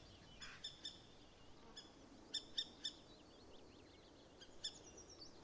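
Faint woodland birdsong: short high chirps in groups of two or three, with softer twittering between them.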